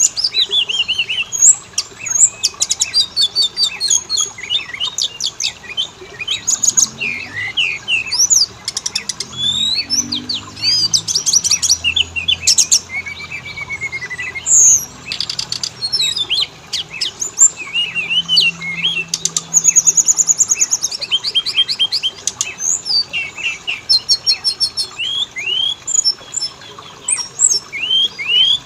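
Oriental magpie-robins (kacer) singing, male and female, in a dense, continuous stream of varied phrases: clear rising and falling whistles, fast trills and rapid clicking runs.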